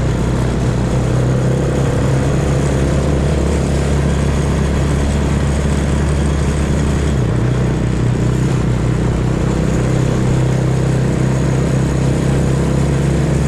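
Small off-road vehicle engine running steadily while under way, its pitch changing slightly about seven seconds in.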